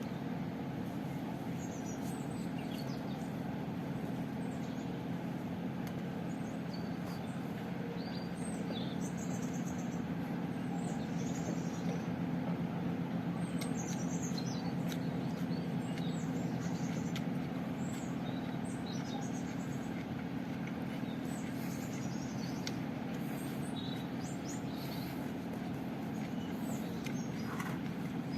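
Small birds chirping and calling many times over a steady low rumble, with a few faint clicks.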